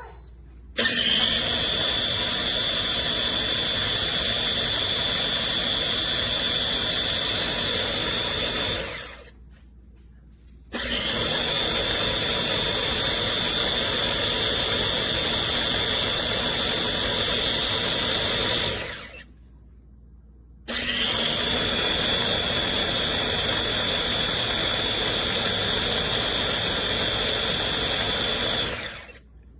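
EVLA'S baby food maker's blender motor spinning its blade in three runs of about eight seconds each, with short pauses between them. Each run starts with a rising whine that then holds steady and high.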